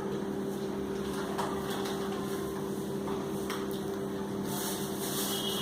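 A steady low electrical hum, with a few faint brief clicks and a soft hiss near the end.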